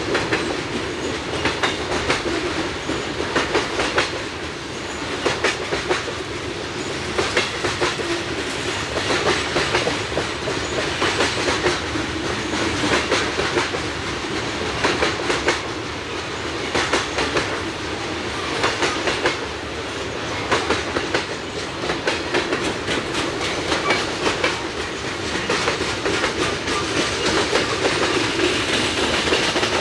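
Freight train cars rolling past, their wheels clicking and clattering over the rail joints in quick groups over a steady rumble of the train.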